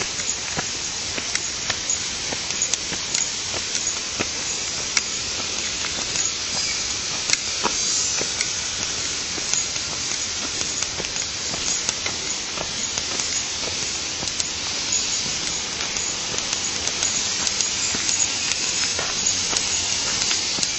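Steady hiss of flowing stream water, with many small sharp ticks scattered through it.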